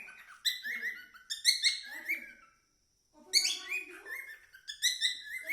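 Pet cockatiel singing: two phrases of quick chirps and sliding whistled notes with a short pause between them.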